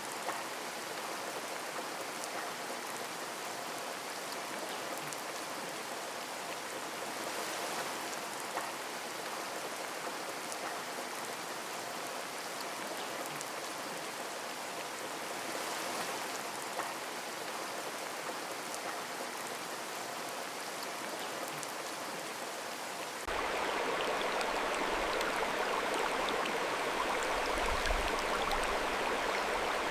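Steady rain with fine scattered drop ticks. About three-quarters of the way through it cuts suddenly to a louder rush of flowing stream water.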